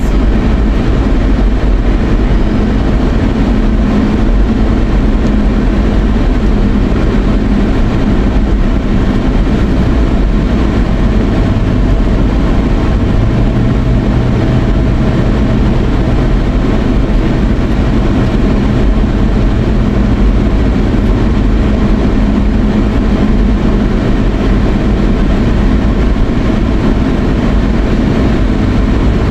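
Steady road and engine noise heard from inside a moving car's cabin, with a low hum that comes in for several seconds near the middle.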